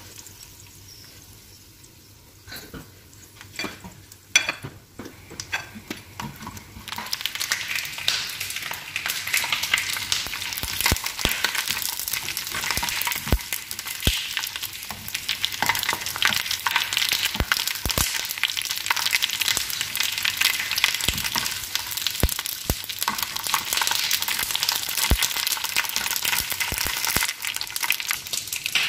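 Hot oil sizzling and crackling in a frying pan as pieces of meat fry, quieter at first and turning loud and dense about seven seconds in. Metal tongs click against the pan now and then.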